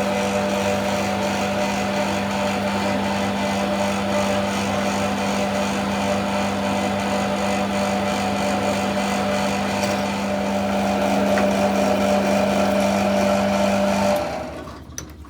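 A motor-driven shop machine running steadily, with a constant hum under a broad hiss; it gets a little louder a few seconds before the end, then cuts off suddenly.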